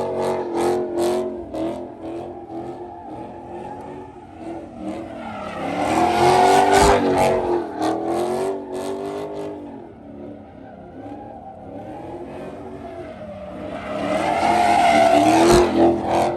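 Car engine revving up and down hard with tyre squeal, as a car drifts or does donuts. The loudest surges come about six seconds in and again near the end.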